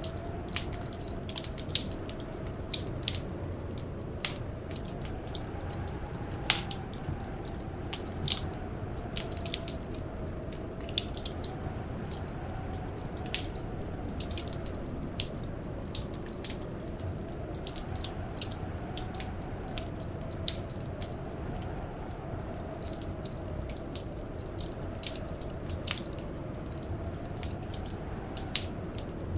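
Wood fire crackling, with irregular sharp pops over a steady low rumble. Behind it a soft wind howl runs on, its pitch wavering slowly up and down.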